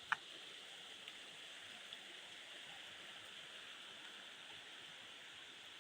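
River water rushing steadily, an even hiss, with a short click just after the start.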